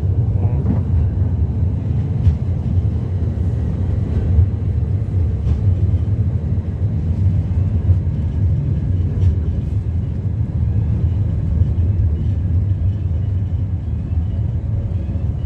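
Blackpool heritage tram running along the track, a steady low rumble with a few faint clicks.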